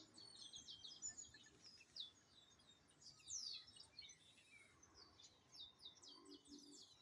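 Several small birds chirping and singing, a busy mix of short chirps and quick downward-sweeping notes, with a faint background hiss.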